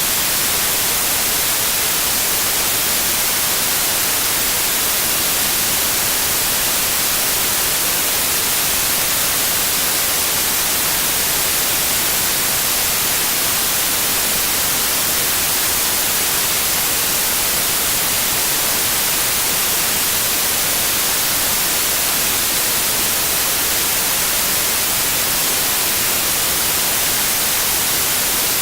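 Steady synthetic white noise: an even, unbroken hiss, brightest in the high end.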